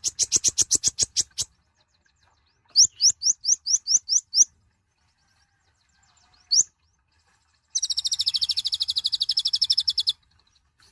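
Kolibri ninja sunbird singing high, rapid chirps. A quick run of notes and then a run of rising upslurred notes are followed by a single note and, about eight seconds in, a long, fast, even trill.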